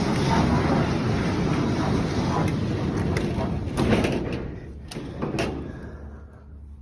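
Large sliding hangar door rolling along its track with a rumble, then a few metal clanks between about four and five and a half seconds in as it closes.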